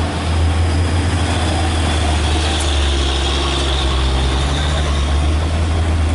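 Heavy truck engine running steadily at low revs, a loud, deep, even hum with no change in pitch.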